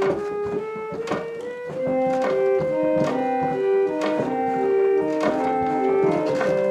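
Pump (reed) organ being played, just restored and under test: a slow tune of held reedy notes and chords, with a short knock about once a second.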